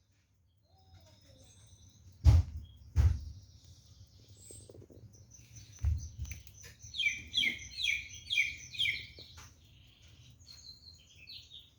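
A songbird chirping and singing, with a quick run of repeated high notes in the middle. Three loud thuds break in, about two seconds in, a second later and near six seconds.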